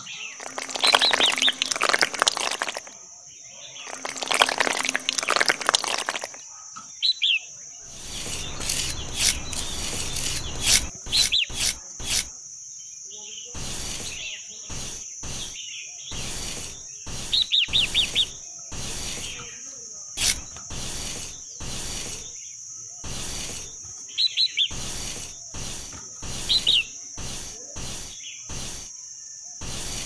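Short bird chirps recurring every few seconds, over the wet scraping and clicking of a small metal palette knife spreading and smoothing wet concrete.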